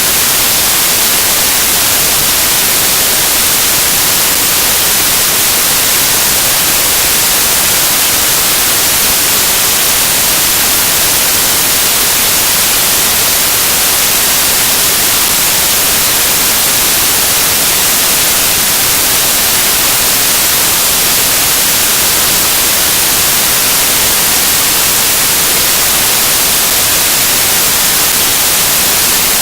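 Loud, steady hiss of static white noise, strongest in the treble and unchanging throughout, with no speech or other sound over it.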